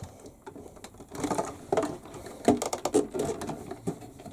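Plastic casing parts of a toy washing machine knocking, clicking and rattling in irregular clusters as they are pushed and jiggled to locate into place.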